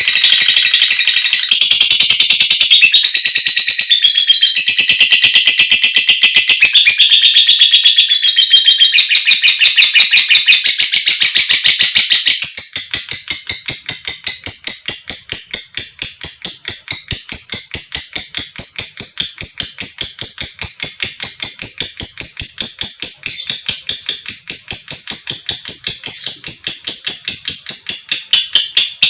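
Female lovebird giving a long, rapid, high chattering trill (the 'ngekek' call). About twelve seconds in it switches to a steady run of sharp, evenly repeated ticking calls (the 'ngetik' call), several a second.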